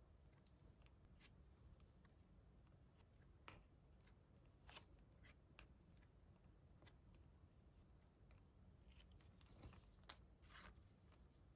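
Faint handling sounds of trading-card packaging being opened: scattered light clicks and taps, with a short burst of plastic crinkling near the end.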